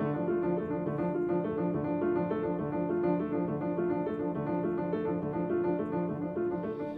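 Piano music: a steady run of repeated notes at an even pulse.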